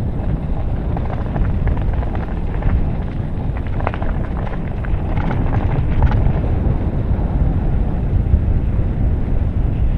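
Loud, low, irregular rumble with no clear pitch, typical of wind buffeting the microphone, with a few faint short sounds about halfway through.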